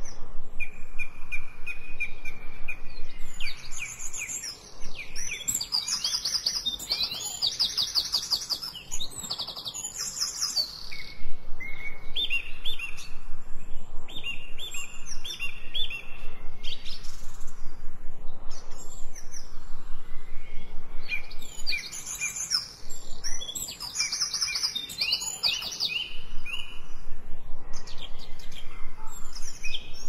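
Songbirds singing and chirping: quick high trills and runs of repeated notes that come in waves, with short lulls between them.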